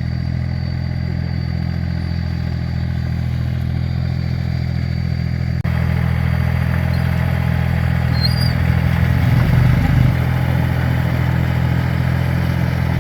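Tractor engine running steadily with a low, even drone. A little over five seconds in the sound changes abruptly and gets louder, and it swells briefly around nine to ten seconds.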